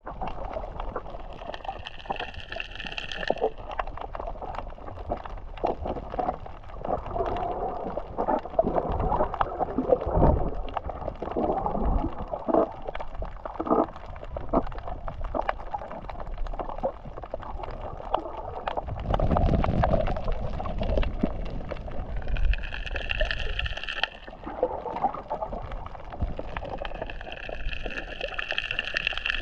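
Underwater sound from a snorkeler's camera: water sloshing and gurgling, with scattered clicks and a deeper rumble about two-thirds through. Three hissing breaths through the snorkel come near the start and near the end, each dropping in pitch as it finishes.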